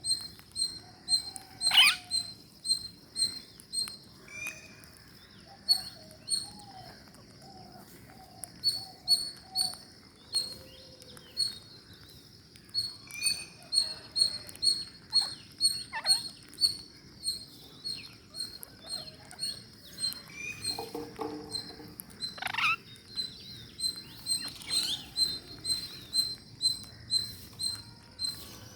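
Ring-necked parakeets calling: a steady run of short high chirps, several a second, broken by a few loud squawks that drop sharply in pitch, near the start, in the middle and later on.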